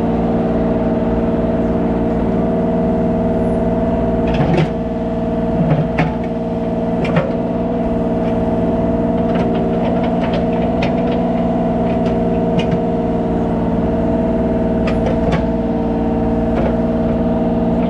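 Kubota mini excavator's diesel engine running steadily, with scattered metallic clanks and knocks from the machine working.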